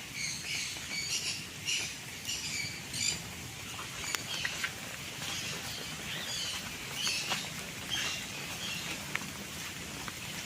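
Small birds chirping in an aviary: a busy run of short high chirps over the first few seconds, thinning to scattered calls later.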